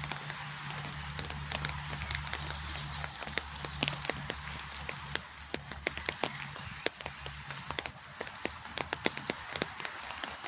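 Steady rain falling, with many close raindrops tapping irregularly, over a low steady hum that fades in and out.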